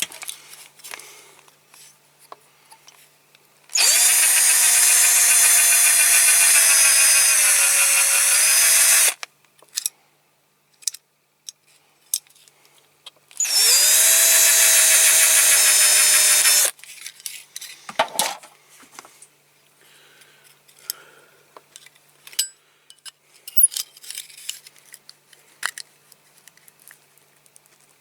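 Small electric drill drilling out the front rivet post on a diecast model car's base, in two runs of about five and three seconds: a steady whine that sags slightly in pitch as the bit bites near the end of the first run. Light clicks of handling the metal parts between and after the runs.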